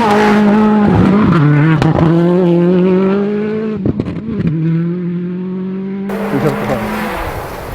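World Rally Car engine accelerating hard: its note climbs and drops sharply twice as it shifts up, with a few sharp exhaust cracks around the second shift.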